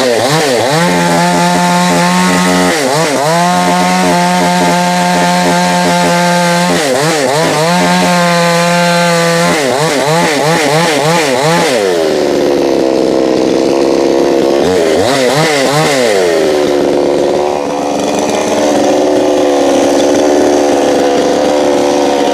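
Two-stroke chainsaw revving in quick up-and-down throttle pulses and holding at high speed. About twelve seconds in it drops to a lower steady speed, with one more brief rev a few seconds later.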